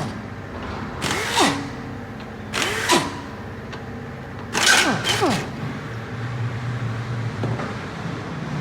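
A power tool run in short bursts while taking apart a V8 engine: about three bursts a second or so apart, then a longer double burst about five seconds in, each with a pitch that rises and falls as the motor spins up and stops. A steadier low hum follows.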